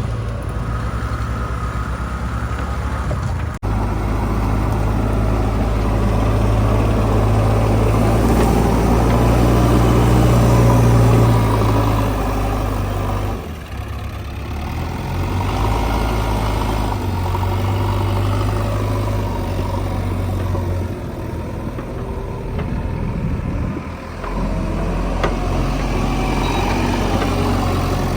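Heavy diesel engine noise from a JCB 3DX backhoe loader at work, with its tractors nearby, running steadily with the engine note shifting. The sound changes abruptly a few times, at jumps between shots.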